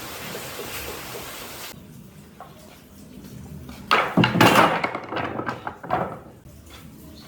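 A steady hiss that cuts off suddenly about two seconds in, then a cluster of knocks and clattering, loudest around four to six seconds in.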